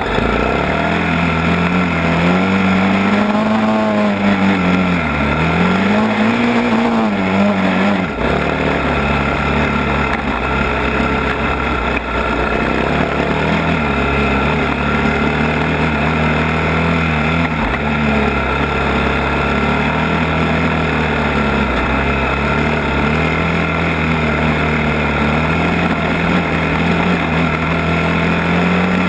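ATV engine running continuously, its pitch rising and falling through the first several seconds as the throttle is worked, then holding nearly steady.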